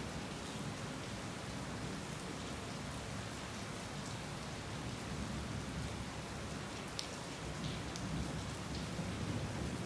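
Heavy rain falling steadily on surfaces, with a sharp drip striking about seven seconds in.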